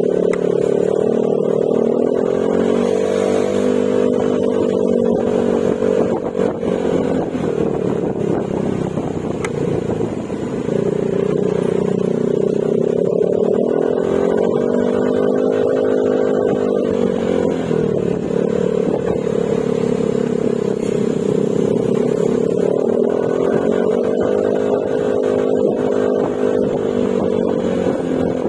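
Yamaha Mio Gravis scooter's single-cylinder engine running through an aftermarket Akrapovic exhaust with silencer while riding. Its pitch rises and falls in slow swells, and it drops off briefly about ten seconds in.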